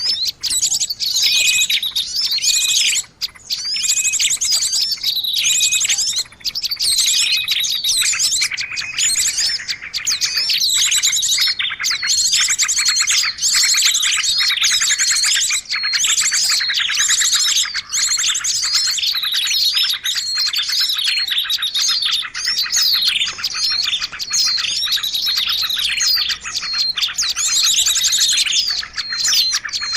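A noisy bird-lure recording of many small birds chirping and twittering over one another: a dense, unbroken mix of rapid high calls and trills.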